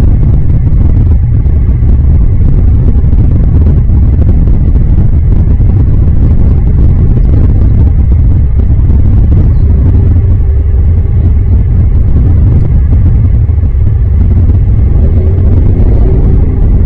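Loud, steady low rumble with no distinct events, of the kind made by wind buffeting an outdoor microphone or by distant road traffic.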